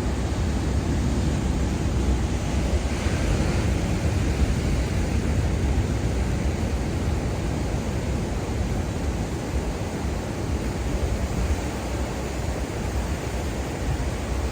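Ocean surf washing onto a beach: a steady rush of waves that swells slightly a few seconds in, over a deep rumble of wind on the microphone.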